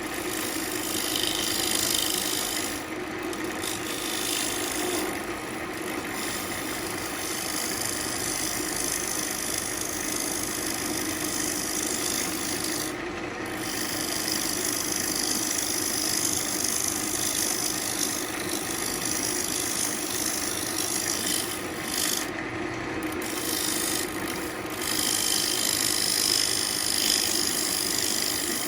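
A Central Machinery wood lathe runs while a turning tool cuts a spinning ambrosia maple bowl blank, making a steady scraping hiss. The hiss drops out briefly about five times as the tool lifts off the wood.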